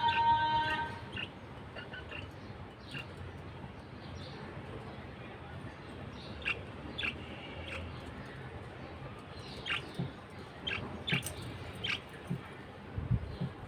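Budgerigars giving short, scattered chirps over a steady hiss, a dozen or so calls spread irregularly; a tune fades out in the first second.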